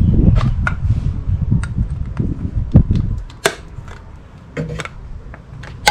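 Conventional engine oil glugging out of a quart bottle into a funnel in the engine's filler neck. The glugging stops about three seconds in, and a few light clicks and knocks of the bottle being handled follow.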